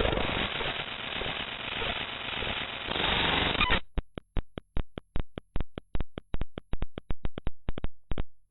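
The mspaint.exe program file played as raw audio at quarter speed. Dense, harsh static for about four seconds, then it cuts abruptly to a train of sharp clicks, about six a second.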